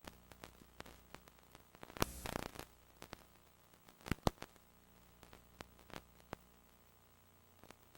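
Faint static hiss and mains hum with scattered clicks and pops. A burst of crackle comes about two seconds in, and two sharp pops about four seconds in.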